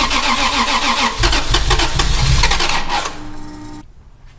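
Toyota SC300's engine being turned over by the starter motor during first start-up attempts, cranking rhythmically without catching. It cranks in two stretches with a brief break about a second in, then stops about three seconds in.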